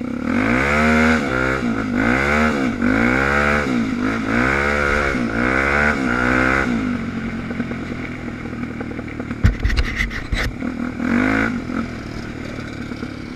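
A dirt-bike engine revved up and down five times in a row, about once every 1.3 seconds, then running lower. Near the end come a few clattering knocks and one more short rev.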